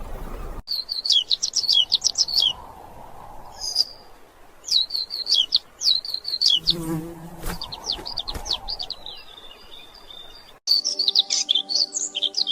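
A small bird singing rapid twittering phrases of high chirps, in bursts separated by short pauses. Near the end, soft music with held notes comes in beneath the song.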